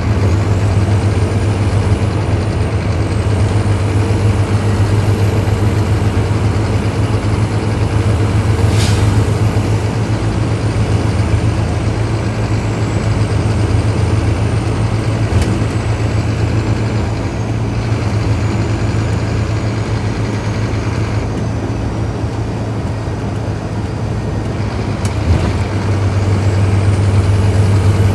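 Scania K310IB bus engine running with a steady, loud low drone, a faint high whine rising and falling above it. A short sharp sound cuts through about nine seconds in, with two fainter ones later.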